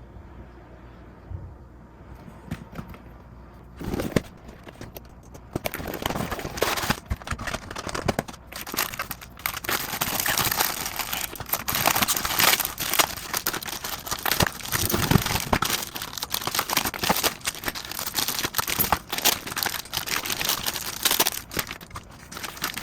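Packaging crinkling and rustling as it is handled, with many small crackles and clicks. It starts about four seconds in and keeps up busily until just before the end.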